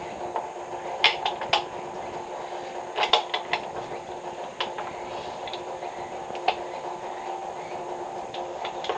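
Sharp metallic clicks and clinks of tools and pipe parts being handled, in small clusters about a second in and about three seconds in, with a few single ones later, over a steady hum.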